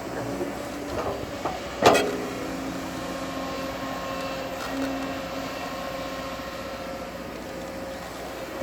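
Bulldozer engine running steadily, with one sharp bang just under two seconds in and a couple of lighter knocks before it.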